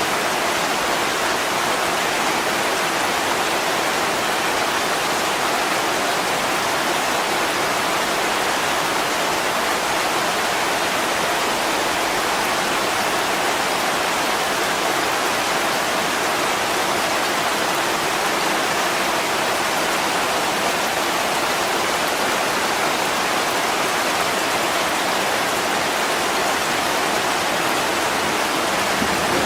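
Heavy rain falling steadily, an even hiss with no breaks or separate drops standing out.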